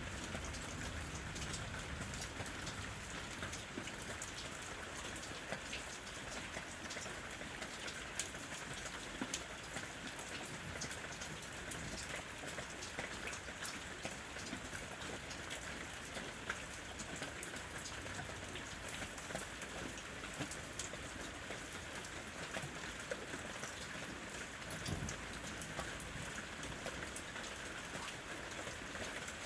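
Steady rain falling on a house roof: an even hiss with many individual drops ticking.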